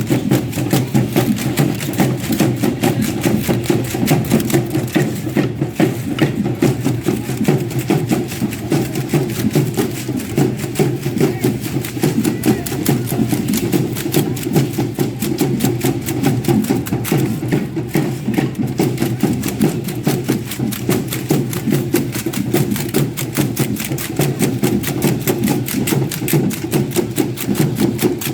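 Music for a matachines dance, carried by a fast, steady percussive beat of even strikes.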